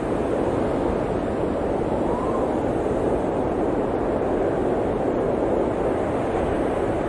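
Blizzard wind blowing as a steady, dense rushing noise, with a faint whistling swell about two seconds in.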